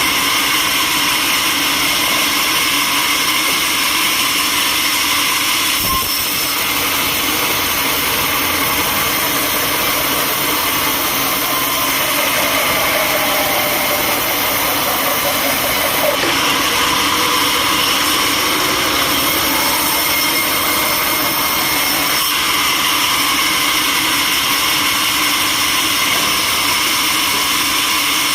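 Sawmill machinery running steadily: a loud, continuous whine and hiss with no break.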